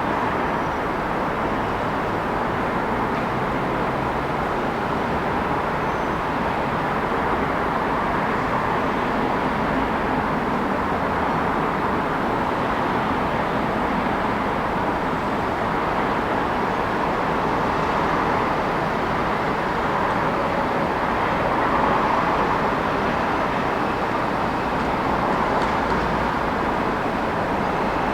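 Steady city road traffic: a continuous wash of passing cars with gentle swells as vehicles go by, one a little louder late on.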